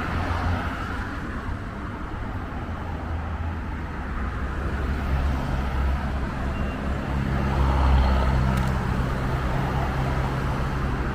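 City street traffic: cars and other road vehicles running past, with one vehicle's engine hum building and passing close about eight seconds in.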